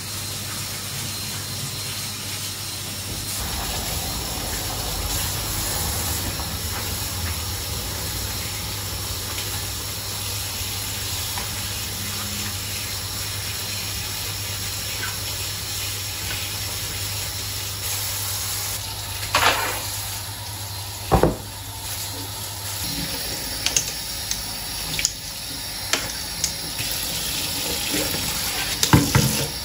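Kitchen tap running: a steady rush of water, with a low hum under it that stops about three-quarters of the way through. A few sharp knocks and clatters, like utensils or dishes, come in the last ten seconds.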